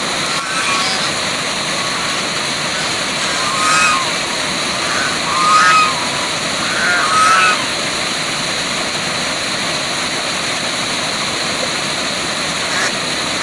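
Waterfall: a steady rush of falling water. Short animal calls rise above it three times in the middle.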